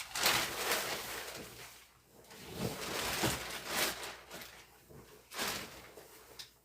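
Plastic window sheeting and tape being handled, in two long scratchy, rustling stretches about two seconds each, then a short one near the end.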